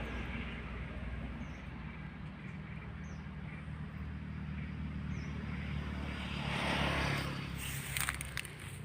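Outdoor traffic ambience: a steady low engine hum with a vehicle passing about seven seconds in, and a few faint bird chirps. A few light clicks come near the end.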